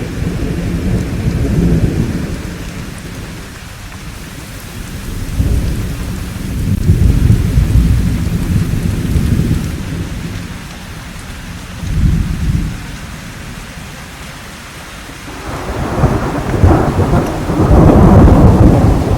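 Thunderstorm: steady rainfall under deep rolling thunder that swells and fades several times. The longest and loudest roll of thunder builds about three-quarters of the way through and lasts to the end.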